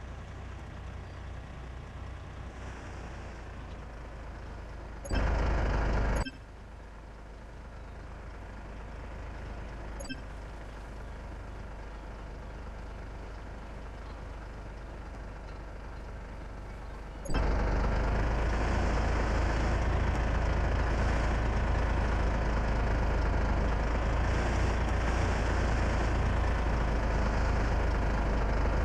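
Truck engine running with a steady low rumble. A loud burst lasts about a second, five seconds in, and about seventeen seconds in the sound jumps suddenly to a much louder steady level.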